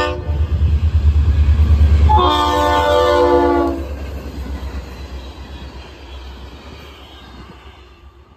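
FEC GP40-2 diesel locomotive sounding its air horn for the grade crossing as it passes: a short blast, then a longer one of about a second and a half, over the heavy rumble of the locomotive's engine. The rumble then fades as the generator car and passenger cars roll by and away.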